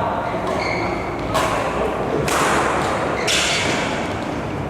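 Badminton rackets striking a shuttlecock in a rally: three sharp hits about a second apart, each trailing off in the echo of a large hall.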